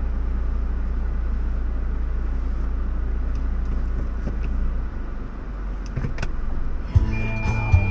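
Car running, a steady low drone that drops slightly about five seconds in, with a few sharp clicks about six seconds in. Music starts near the end.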